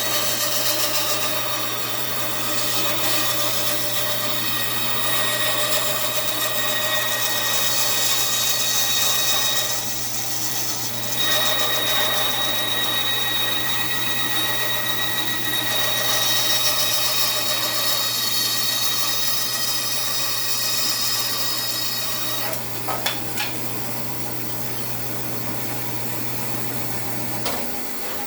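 A 2002 Central Machinery 14-inch bandsaw running and cutting a wooden axe-handle blank, a steady motor hum under the blade's cutting noise. The cutting eases off briefly around ten seconds in and dies away after about twenty-two seconds, with a few light knocks. The motor shuts off near the end.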